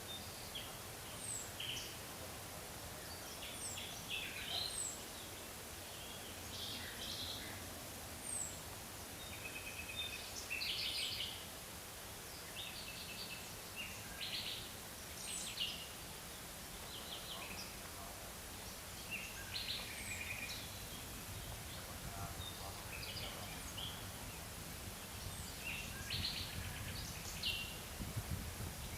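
Several forest birds calling: short chirps, trills and quick high descending notes come every second or two throughout, over a steady faint hiss of forest ambience.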